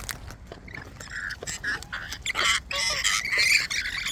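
Parrots squawking: repeated harsh calls start about a second in and grow louder toward the end, after a few light ticks and taps.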